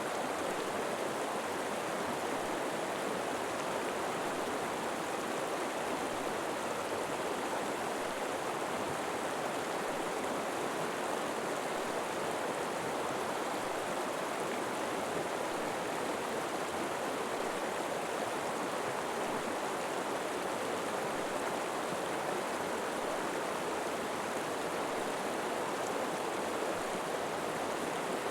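River water flowing, a steady, unbroken rush with no distinct splashes or changes.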